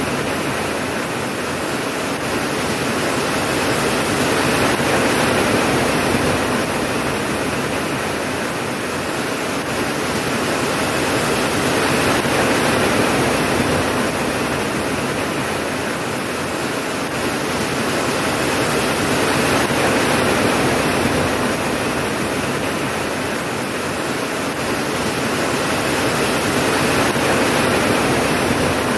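Steady heavy rain: a dense, even hiss that swells and eases gently every seven or eight seconds.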